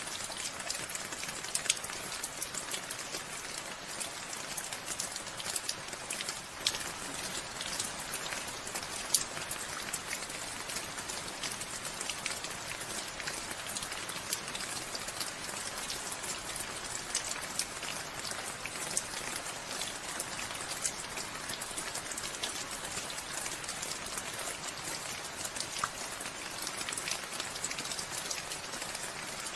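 Steady rain falling, a continuous hiss with many individual drops ticking throughout.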